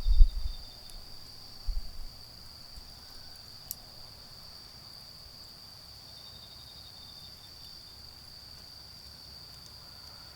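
Autumn insects trilling steadily in one unbroken high note, with a second, fainter insect chirring in short spells. A few low thumps sound in the first two seconds, and there is one sharp click about four seconds in.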